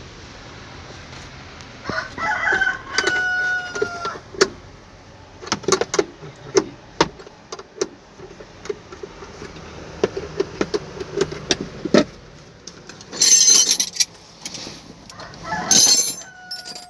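A rooster crows twice, about two seconds in and again near the end, amid scattered metallic knocks and clicks. A loud burst of hiss comes about thirteen seconds in.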